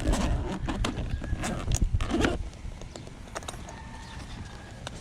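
Hand tools clicking and knocking together, with the rustle of the tool bag's fabric, as they are handled and pulled from a pocket of a Veto Pro Pac tool bag. The clatter is busiest in the first couple of seconds, then thins to a few light clicks.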